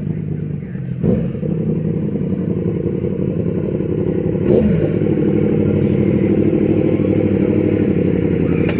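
Sport motorcycle engine running at idle with a pulsing beat, given two brief revs, about a second in and about four and a half seconds in.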